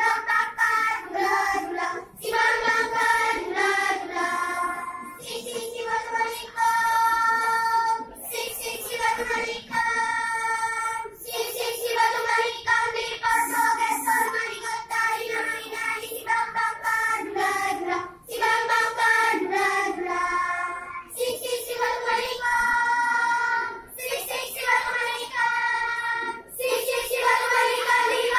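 Children's choir singing an Islamic song in phrases of about two seconds, with short breaks between them.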